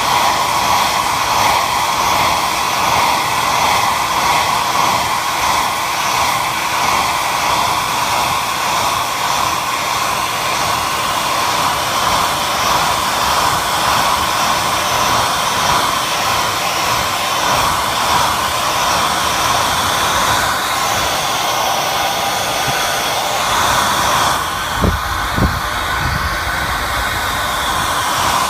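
Hair dryer running steadily, blowing with a whooshing rush strongest in the middle range. About 24 seconds in its tone shifts, and two short low bumps follow.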